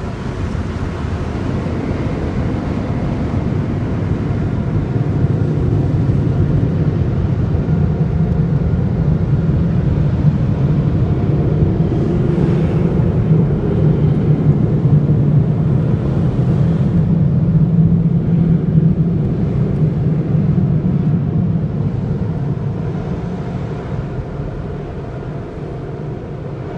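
Car wash tunnel dryer blowers, a steady loud rush heard from inside the car, building as the car moves under them and fading near the end.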